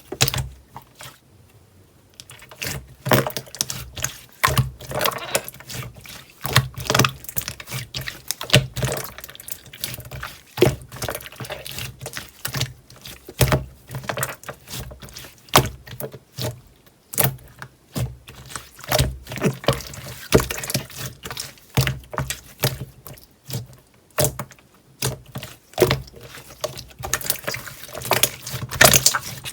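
Clear slime being squished and worked by hand, making a dense, irregular run of wet clicks and pops.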